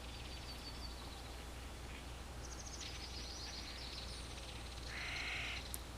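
Faint outdoor nature ambience: small birds or insects chirping high and fast in the middle, and a harsh crow caw about five seconds in, over a steady low hum.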